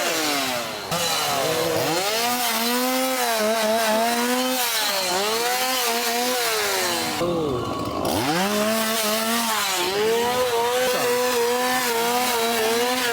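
Gas chainsaw engine being revved hard again and again, its pitch dropping off toward idle and climbing back to a high scream about every two to three seconds.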